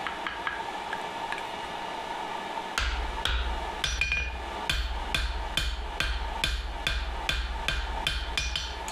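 Hand hammer striking metal on an anvil. A few light taps come first, then from about three seconds in a steady run of ringing blows, about two a second.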